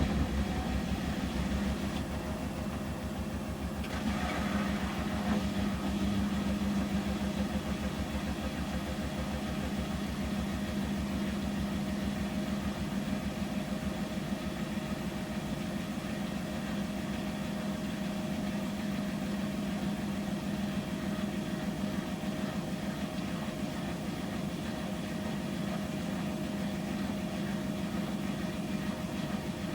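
Samsung Series 5+ AI SmartThings washing machine spinning at 800 rpm in its intermediate spin, a steady motor-and-drum hum. There is a brief hiss about four seconds in.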